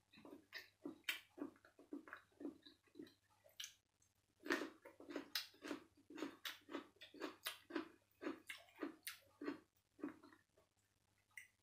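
Close-up chewing of a mouthful of food: soft, wet, rhythmic chews about two to three a second, pausing briefly about four seconds in.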